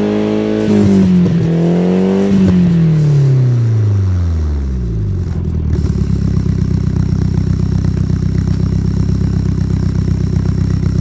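Nissan Silvia S15 Spec-R's turbocharged SR20DET four-cylinder through an aftermarket stainless muffler with a baffle, being revved in place. The revs rise once about a second in, then fall away over a few seconds and settle about five seconds in into a steady, pulsing idle.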